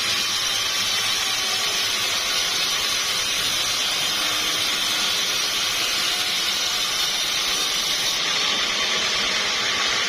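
Sawmill saw and machinery running steadily, a loud, even rush of noise without breaks; the brightest top end falls away about eight seconds in.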